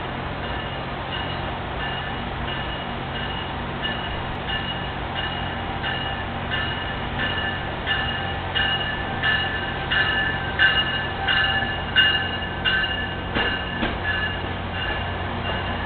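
A Metrolink commuter train pulling in, its bell ringing about three strikes every two seconds and growing louder as the train approaches, over a steady low rumble from the train. A few sharp knocks from the wheels come as the cars pass near the end.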